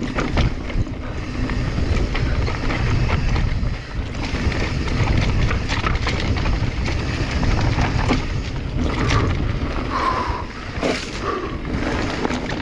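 Wind buffeting a chest-mounted action-camera microphone as a mountain bike rolls down a rough dirt trail, with frequent rattles and knocks from the bike over the bumps.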